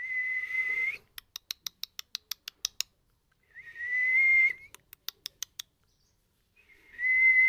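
Pet parrot whistling three times: each a level, steady whistle about a second long, followed by a quick run of sharp clicks.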